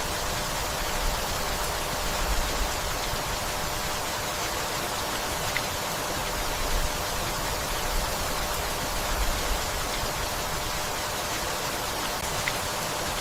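Steady gentle rainfall: an even hiss of rain falling on leaves and the house.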